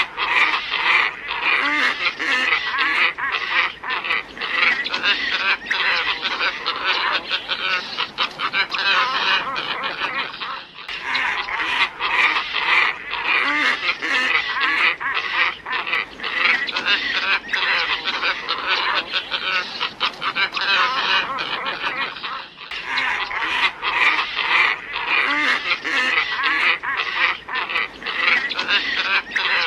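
Glossy ibis calls: many overlapping grunting calls in a dense chorus, a recording played as a bird-catching lure. It loops about every twelve seconds, with a brief gap at each join.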